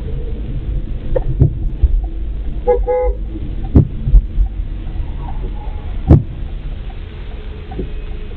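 Steady low road and engine rumble of a moving car picked up by a dashcam, with a short car-horn toot about three seconds in. Several dull thumps come at irregular moments, the loudest about four and six seconds in.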